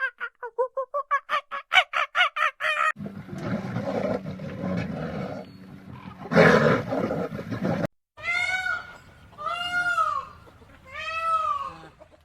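Calls of several animals in turn: a fast, even run of short pitched calls, then a rough, noisy stretch, then three separate arching calls of about a second each.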